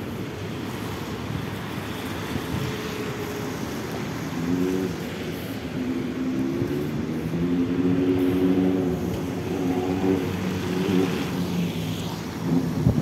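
A road vehicle's engine running over a steady rumble of street noise. Its hum comes up about four seconds in, holds with slow small shifts in pitch, and fades near the end.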